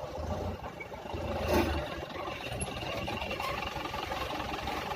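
Diesel engine of a Hino heavy-duty dump truck running with a low rumble, with one short loud clatter about a second and a half in.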